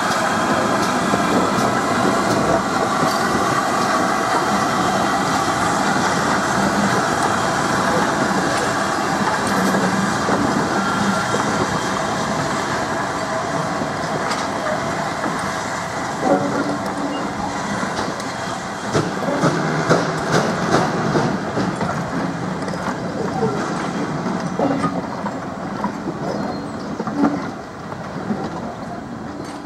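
Passenger coaches rolling past, with a steady rumble of wheels on rail. From about halfway, sharp clicks of wheels crossing rail joints join in, and the sound begins to fall away as the last coach goes by near the end.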